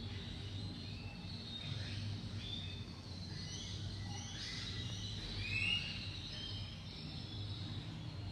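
Birds chirping and whistling in short, scattered calls, some sliding in pitch, over a steady low hum.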